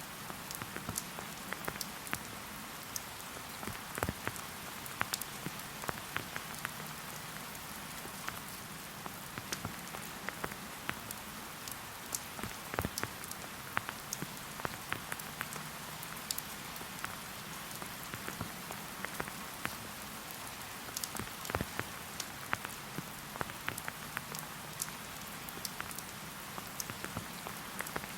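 Steady rain falling: an even hiss with many separate drops ticking at irregular moments.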